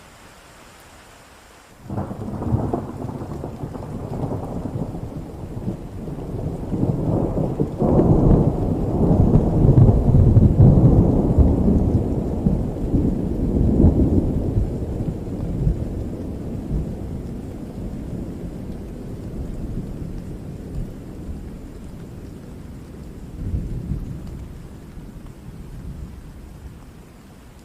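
Thunder over steady rain: a long rolling rumble breaks in suddenly about two seconds in, builds to its loudest in the middle and slowly dies away, with a smaller rumble near the end.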